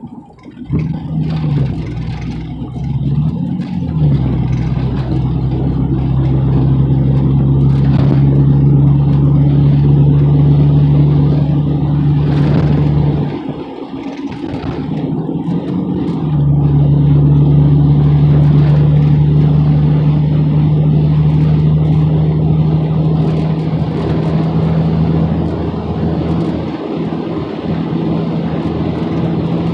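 Pickup truck's engine and road noise heard from inside the cab while driving: a steady low drone that rises and falls in pitch in the first few seconds as it picks up speed, drops away briefly a little before halfway, then comes back up and holds steady.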